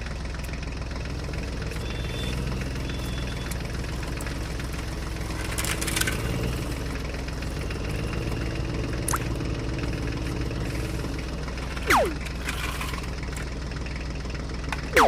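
A steady low mechanical hum, like a small motor running. It is broken by two quick falling whistles, one about twelve seconds in and one at the very end, which are the loudest sounds.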